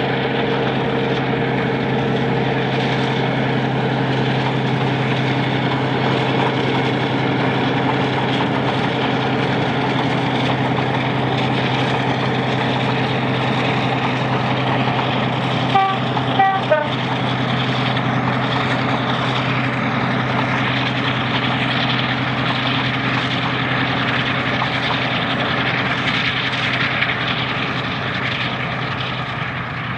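Diesel locomotive engine running with a steady low drone. A few short high tones sound briefly about halfway through.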